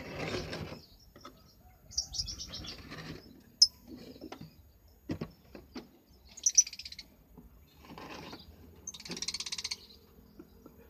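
Lovebirds giving high-pitched chattering calls in about five separate bursts of rapid notes, each half a second to a second long, with a few sharp clicks in between.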